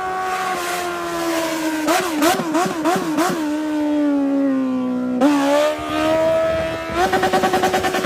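Motorcycle engine revving hard: its pitch wobbles up and down with quick throttle blips about two seconds in, then sinks as it slows. It climbs again after about five seconds and turns into a rapid stuttering pulse near the end.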